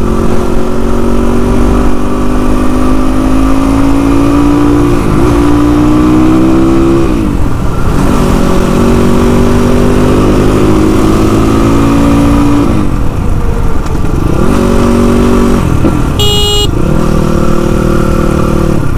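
Motorcycle engine pulling hard through the gears: the pitch climbs, drops at each shift, and climbs again, about three times. A short horn beep sounds about 16 seconds in.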